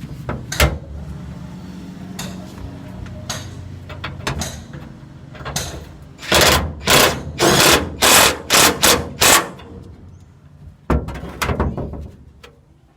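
Hammer blows, a quick run of about eight sharp strikes starting about six seconds in, then a few more near the end, over a low steady hum that fades out about ten seconds in.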